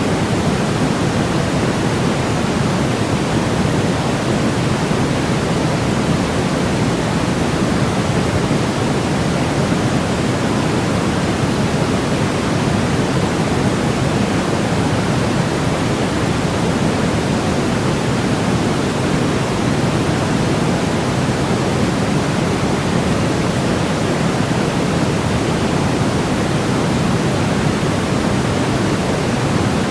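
Steady electronic noise of the kind played to help babies sleep, weighted toward the low end so that it sounds like a deep rush rather than a thin hiss. It runs unchanged, with no breaks or events.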